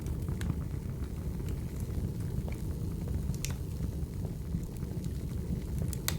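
Wood fire burning and crackling: a steady low rumble with scattered sharp pops, the loudest one near the end.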